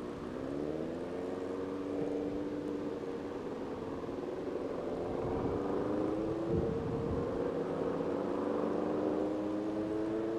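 Motorcycle engine under way at low speed, heard from the rider's seat. Its pitch dips at first, then climbs slowly as the bike pulls gently in gear, with a brief break about six and a half seconds in.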